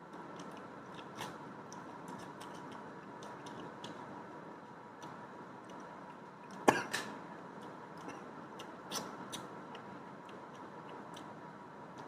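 A person eating a meal of rice and egg curry: small wet clicks and smacks of chewing, with a louder sharp click about seven seconds in and a couple more around nine seconds, over a faint steady hum.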